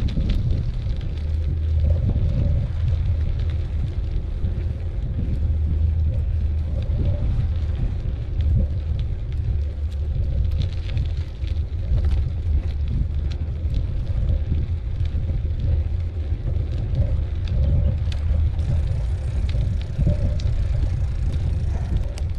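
A mountain bike rolling along a dirt trail: a steady low rumble of wind on the microphone and tyres on the ground, with scattered small clicks and rattles.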